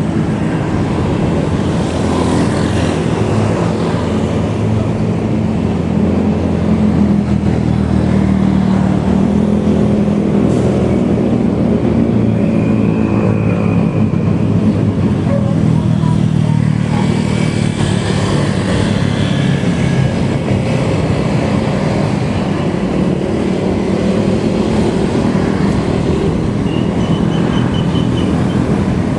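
Motorcycle engine running at a steady cruising speed, an even drone with no big changes in pitch, mixed with road and wind noise.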